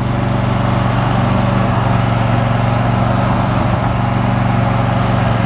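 Riding lawn mower's engine running steadily while being driven along a road, a constant drone heard from the driver's seat.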